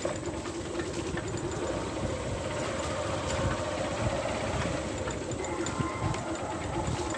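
Steady hum of a running vehicle engine, heard from aboard as it moves along a road.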